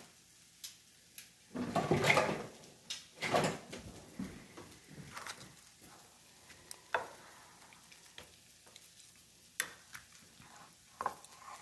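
Kitchen handling sounds while chicken is seasoned: two short, loud rustling or shaking noises in the first few seconds, then scattered light clicks and taps.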